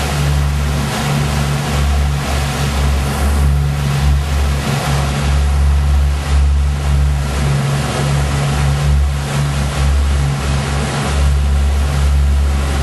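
Boat engine running steadily under way, a low steady hum over an even rush of noise.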